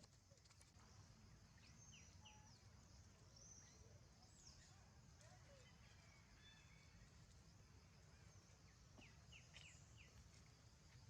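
Near silence: faint, short high-pitched animal chirps come and go over a low steady rumble.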